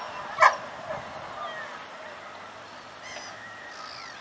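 Bird calls over a steady outdoor hiss: one loud, short call about half a second in, then fainter scattered chirps and calls.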